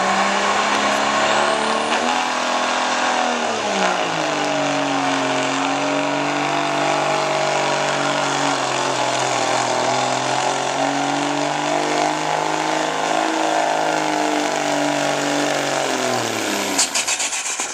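Turbocharged diesel pickup truck under full throttle pulling a weight sled. The engine note shifts in pitch over the first few seconds, drops about four seconds in, then holds steady under load before winding down near the end. A high whine climbs during the first few seconds.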